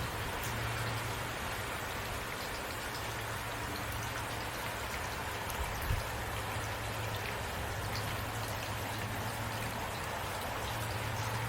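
Heavy rain falling steadily, a dense even hiss with individual drops ticking through it. There is a brief low thump about six seconds in.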